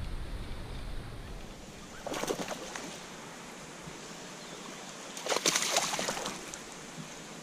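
Two short bursts of water splashing and trickling, about three seconds apart, over a faint steady rush of running water.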